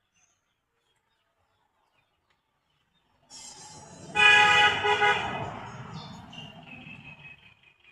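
A horn-like honk on a steady pitch. It comes in suddenly about three seconds in, is loudest for about a second, then fades away.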